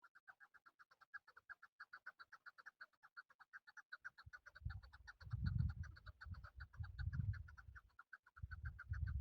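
Male chukar partridge calling: a fast, even run of clucking notes, about eight a second, that keeps up steadily. From about four seconds in, a louder low rumble comes in over it in surges.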